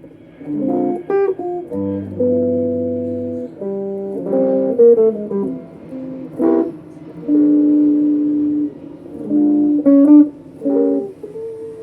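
Electric guitar, a Vintage V100, played through a Boss ME25 multi-effects unit into a Peavey Backstage Plus practice amp. It plays a mix of chords held for a second or so and short runs of notes, with brief breaks between phrases.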